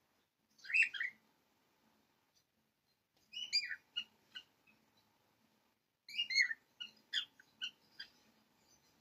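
Bird-like chirping in three short bursts of quick falling chirps, about a second, three and a half and six seconds in, with near silence between.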